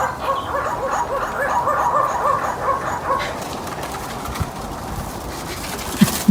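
An animal calling in a quick series of short rising-and-falling notes, about four a second, which stop about three seconds in. A sharp knock comes near the end.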